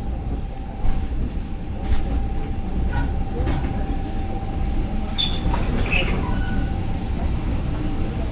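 Passenger train running, heard inside the carriage: a steady low rumble with a constant whine, a few sharp wheel knocks over the rail joints, and faint squeaks from the wheels or car body near the middle.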